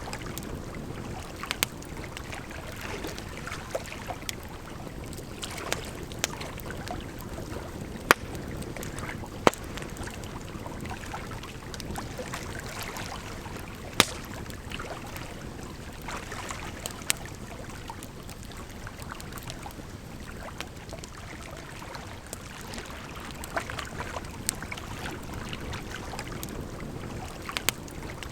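Campfire crackling, with irregular sharp pops a few seconds apart, over a steady rush of flowing water.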